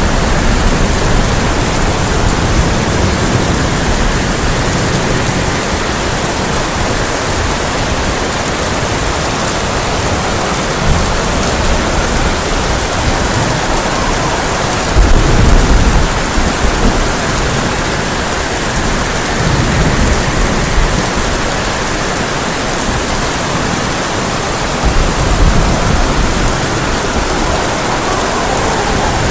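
Heavy rain falling on a tin roof in a dense, steady hiss, with low rumbles of thunder about halfway through and again near the end.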